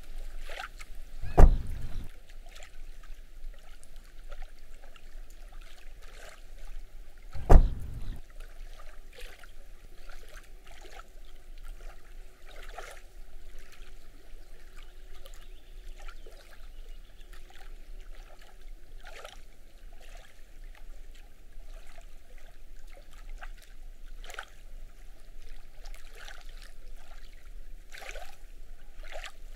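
Water lapping at a lake shore, with many small splashes and ticks, and two heavy low thumps: one about a second and a half in, another about six seconds later.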